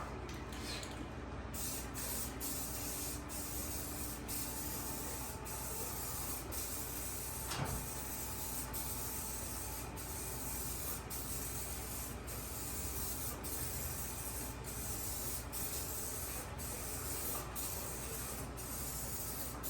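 Paint spraying in light coats, a steady hiss with brief breaks about once a second, with a single sharp click about eight seconds in.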